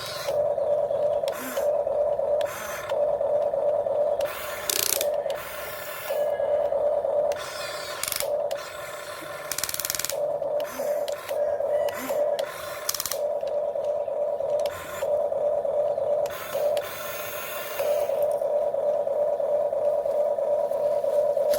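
Geared electric motors of a radio-controlled model excavator whining as they start and stop again and again while it works, with repeated plastic-and-metal clicks and clatter.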